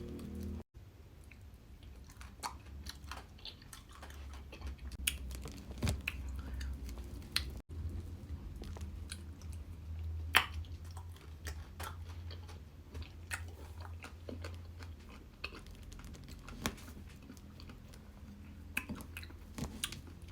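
Close-miked chewing and mouth sounds of someone eating ice cream, with scattered small wet clicks and smacks, over a faint low hum.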